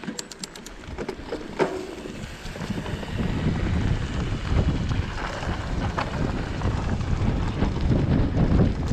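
Wind buffeting the microphone of a camera riding along on a mountain bike, a low rumble that grows louder about three seconds in as speed picks up. A quick run of sharp clicks and rattles sounds in the first second.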